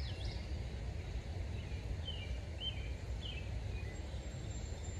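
A few short bird chirps over a steady low outdoor rumble.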